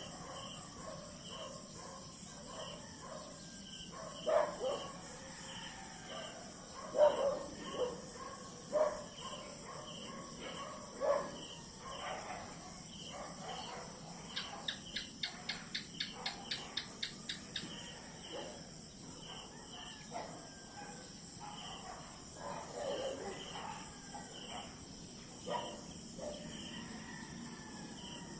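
Insect chorus with crickets: a steady high buzz and a regular chirp repeating under a second apart. A quick run of rapid pulses comes about halfway through. Several louder short calls from other animals rise above it.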